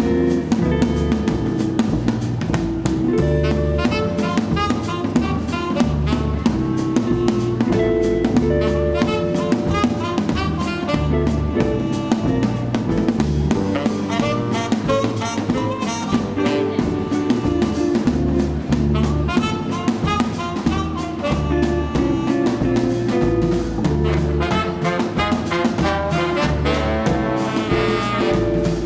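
Live swing-jazz band playing an instrumental: a drum kit keeping a steady beat under brass horns carrying the tune.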